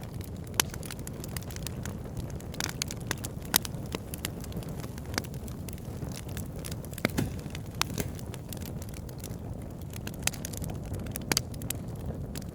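Wood campfire crackling, with irregular sharp pops, a few louder ones about half a second, three and a half, seven and eleven seconds in, over a steady low rumble.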